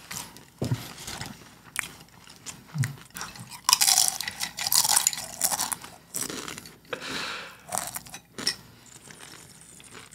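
Close-miked eating sounds: open-mouth chewing and smacking with crunches, mixed with clinks of dishes and ice in a glass.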